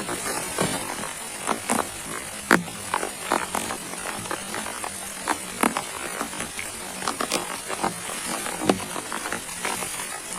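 Rain falling in a forest: a steady hiss with irregular sharp drops tapping close by, a few each second.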